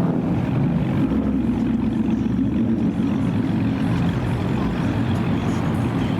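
Car engine running steadily, with no revving.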